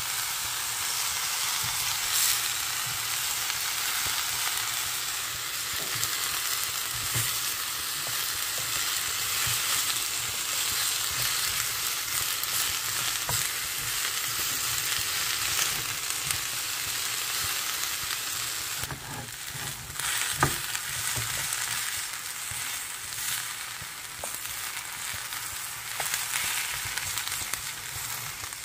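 Cabbage and Brussels sprouts sizzling over high heat in a nonstick frying pan, searing hard, with small knocks and scrapes as they are turned with a silicone spatula. The sizzle eases a little about two-thirds through, with one sharp tap just after.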